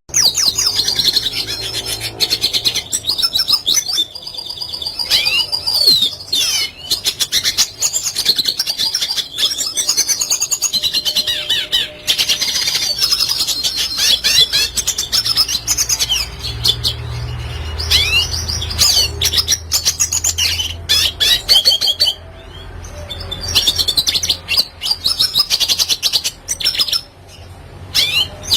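Red siskin singing a fast twittering song of chirps, trills and short whistled glides, broken by a few brief pauses.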